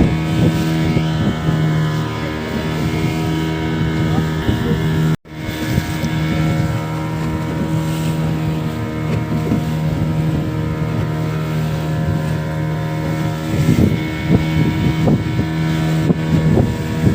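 Motorboat engine running steadily at speed, a constant drone with wind buffeting the microphone; the sound cuts out for an instant about five seconds in.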